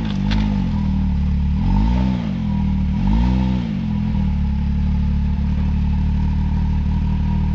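Can-Am X3 side-by-side's turbocharged three-cylinder engine blipped up and back down three times in the first few seconds, then running steadily at a low, even pitch. A sharp click comes just after the start.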